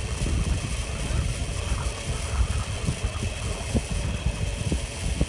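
Strong gusting wind buffeting the microphone: an uneven low rumble that flutters and surges. A faint steady high tone sits underneath it.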